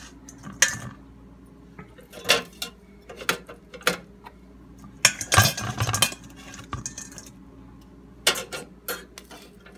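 Metal kitchen utensils clinking and knocking against a bowl and dishes: a string of separate sharp clinks, with a busier run of them about five seconds in.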